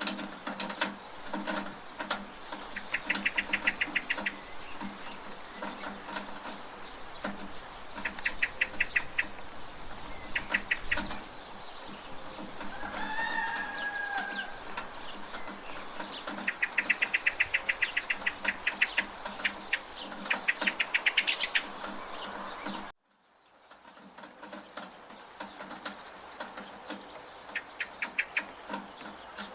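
Village rain ambience: steady rain with water running from a gutter, birds chirping in quick rapid trills several times, and a drawn-out chicken call in the middle. The whole sound cuts out abruptly for about a second near the end, then the rain and birds resume.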